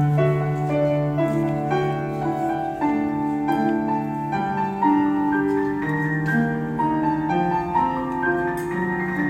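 Background music played on piano: a slow melody of sustained notes over held bass notes, changing about once a second.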